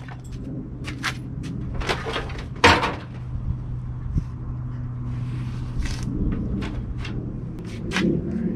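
Clicks and knocks of removed truck interior parts being handled and set down, with one louder knock a little under three seconds in, over a steady low hum.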